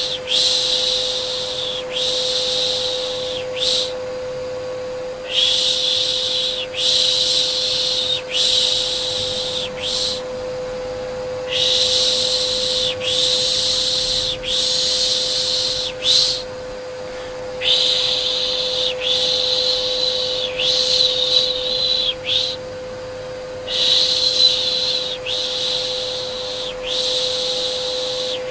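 Rhythmic 'shh, shh' shushing for soothing a baby: long hissing shushes about two seconds each, in runs of two or three with short pauses, over a steady vacuum cleaner hum.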